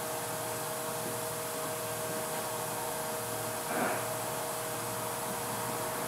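Steady machine hum with an even hiss, holding two constant tones, with a brief faint sound about four seconds in; no hammer blows.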